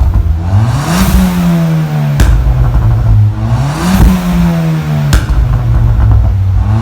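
Ford Fiesta ST200's turbocharged 1.6 four-cylinder revved twice and let fall back each time, its crackle map popping in the stock exhaust on the overrun with a sharp bang as each rev settles. A third rev begins near the end.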